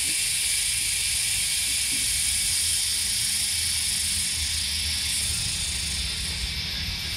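Cicadas droning in a steady, high-pitched chorus that starts to pulse slightly near the end.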